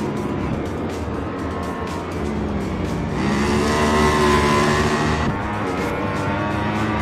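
Racing motorcycle engines at high revs, the engine note climbing in pitch as it accelerates and getting louder about three seconds in. The pitch drops briefly about five seconds in, then climbs again.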